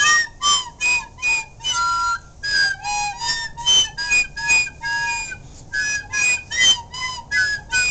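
Recorder playing a simple tune in short separate notes, about two a second, played unskilfully.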